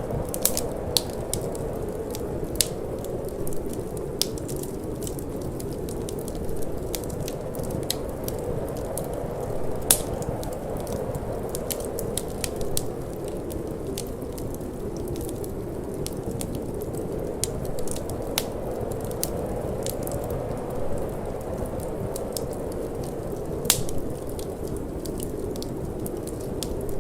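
Wood fire in a fireplace crackling, with irregular sharp pops, two of them louder about ten seconds in and near the end, over a steady low rush of wind.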